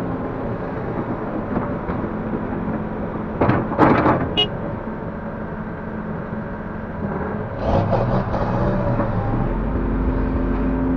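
Link-Belt 145X3E hydraulic excavator working, its diesel engine running steadily. Two bursts of clanking and scraping from the bucket and load, about a third of the way in and again past halfway, with a deeper rumble building near the end.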